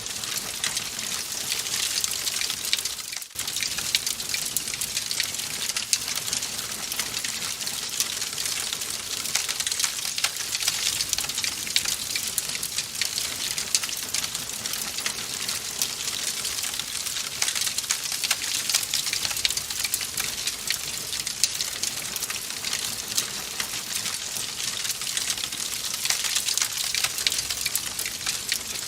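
Wood fire crackling in a fireplace: a steady hiss full of dense, sharp snaps and pops, with a brief drop in level about three seconds in.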